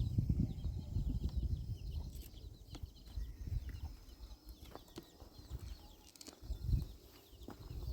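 Birds chirping in many short high calls, with a few sharp knocks. A low rumble fades out over the first two or three seconds.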